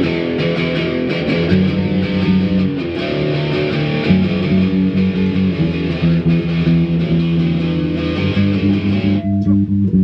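Guitar strumming chords of a song's verse. The strumming stops about nine seconds in, leaving lower notes ringing.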